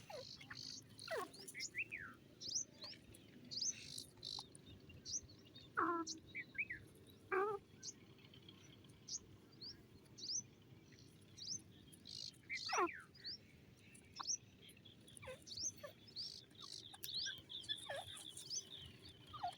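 Grey francolins and other birds calling: a string of short, high, rising chirps about once a second, with a few louder falling calls of several tones standing out now and then.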